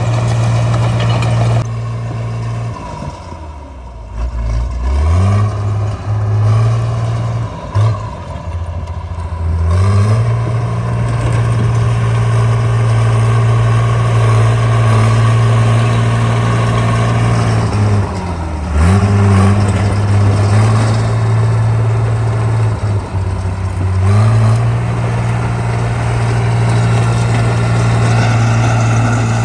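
Caterpillar D3C bulldozer's diesel engine running steadily. Its speed drops and picks back up a few times: about three seconds in, again near eighteen seconds, and again near twenty-four seconds.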